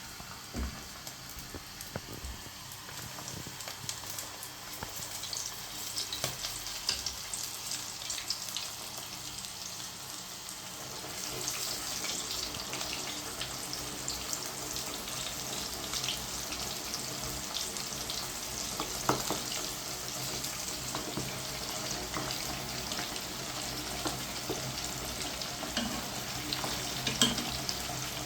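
Floured chicken pieces frying in hot oil in a pot: a steady sizzle with scattered crackling pops. The sizzle grows louder about eleven seconds in.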